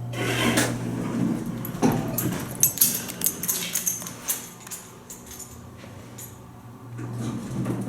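Otis traction elevator cab with a steady low hum, then a run of sharp clicks and clatter, heaviest in the first half, from the car and door equipment as the ride ends.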